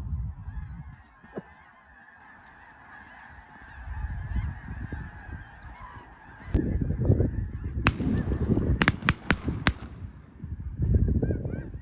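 A large flock of snow geese calling in a continuous, dense chorus overhead. About six shotgun shots go off in quick succession, the first about six and a half seconds in and the rest between about eight and ten seconds. A low rumble runs under the second half.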